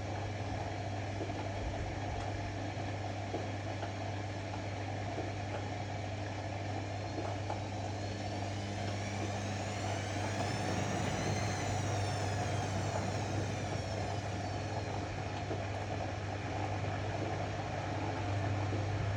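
Ariston AML125 washer-dryer running with a steady motor hum; midway its drum motor whine rises in pitch for a few seconds and then falls back as the drum speeds up and slows down again.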